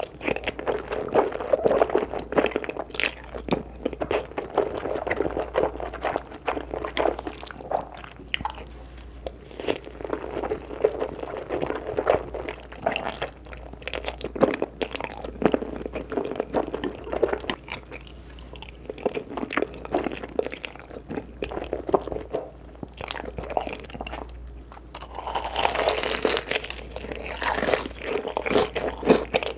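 Close-miked eating: crunchy bites and chewing in an irregular run of short crunches and clicks, with a louder, denser stretch near the end.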